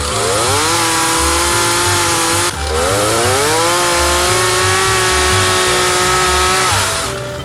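Chainsaw revving up to full throttle and holding there, easing off briefly about two and a half seconds in, then revving up again and dropping back near the end.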